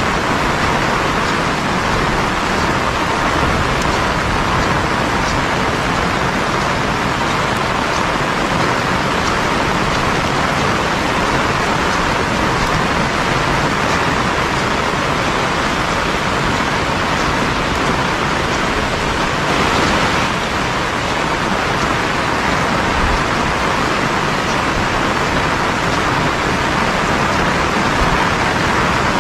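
Heavy rain falling, a loud steady hiss that swells briefly about two-thirds of the way through.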